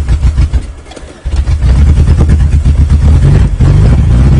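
1994 Geo Tracker's four-cylinder engine on a winter cold start, cranking and firing unevenly, then catching about a second in and running steadily. The owner suspects bad compression on one cylinder.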